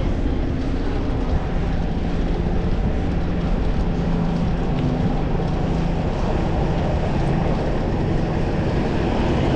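Steady road and traffic noise heard while cycling through a city street: a constant low rumble with the hum of a nearby motor vehicle.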